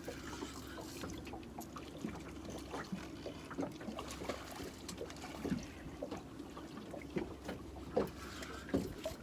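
Water trickling and sloshing around a small fishing boat, with scattered light knocks and clicks.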